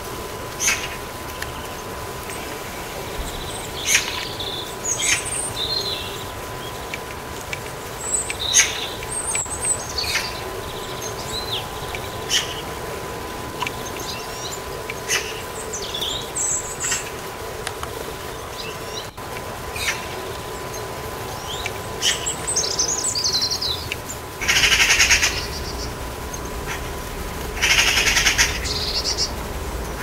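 Garden birds calling: scattered short chirps and whistles from small birds, then two louder harsh rattling bursts of about a second and a half each near the end, the chatter of Eurasian magpies. A faint steady whine runs underneath.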